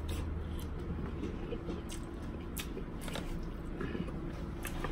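A person chewing and eating seafood, with scattered small clicks over a low steady hum.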